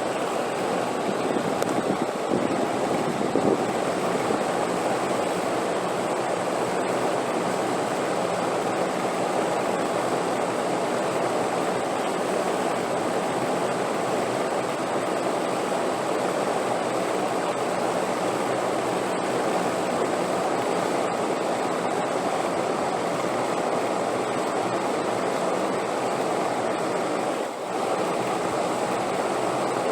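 Steady wind noise, a continuous even rush with a faint steady high tone above it, dipping briefly about 27 seconds in.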